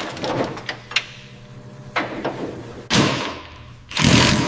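Metal knocks and clanks from teardown work on an old car body, about one a second, ending in a longer, louder clatter near the end.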